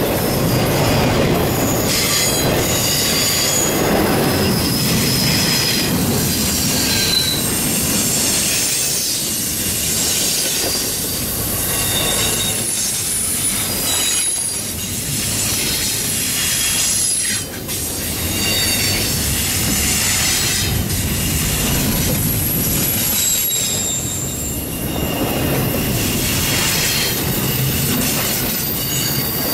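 Double-stack intermodal freight train rolling past: a steady loud rumble of steel wheels on rail, with many short high-pitched wheel squeals coming and going and occasional clicks at rail joints.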